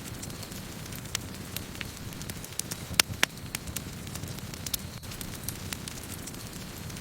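Wood campfire burning with a steady low rumble of flames and irregular sharp crackles and pops of burning wood, the loudest two close together about three seconds in.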